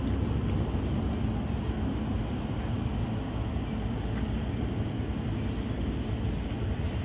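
Steady low rumble of road traffic with a constant background hiss.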